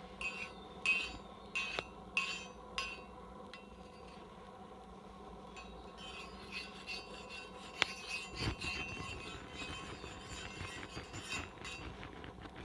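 Scraping and light clinking as an iron griddle plate is handled and readied for cooking. Several short scraping strokes come in the first three seconds, then a run of smaller scrapes and clicks with a sharp click and a dull thud about eight seconds in.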